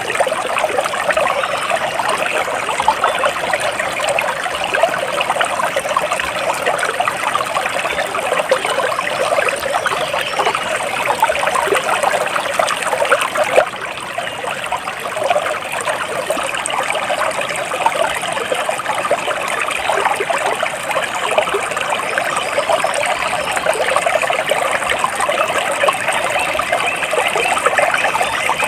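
Water flowing and trickling steadily, a dense, even splashing babble like a small stream running over stones.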